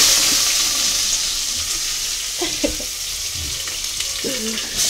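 Food frying in hot oil in a metal cooking pot: a loud, steady sizzle.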